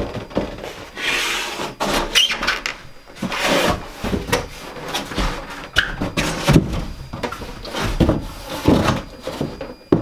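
Irregular wooden knocks, bumps and scrapes of timber wall boards being handled and offered up into place.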